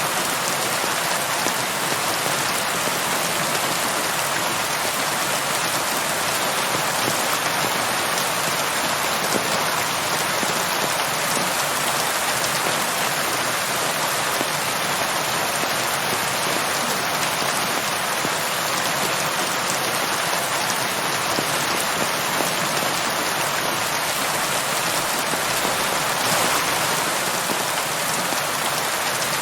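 Steady heavy rainfall, an even hiss of rain falling on surfaces with no letup.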